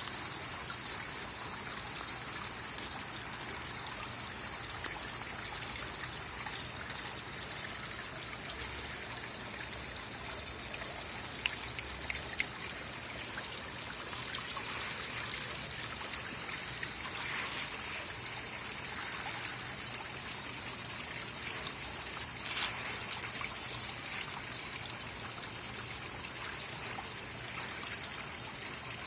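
Steady trickling water running without a break, with a few faint ticks here and there.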